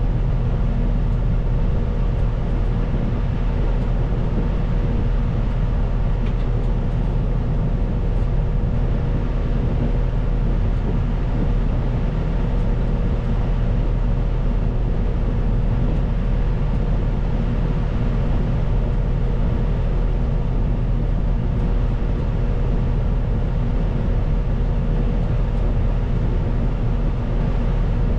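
CAT 926M wheel loader's diesel engine running steadily, with a constant whine over the low engine note.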